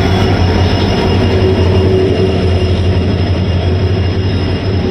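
Indian Railways passenger train coaches rolling past close by as the train pulls into the station, a loud steady rumble of wheels on rail that eases slightly near the end.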